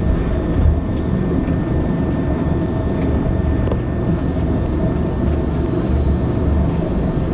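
Steady low rumble in the cabin of a Boeing 787-8 airliner on the ground just after landing.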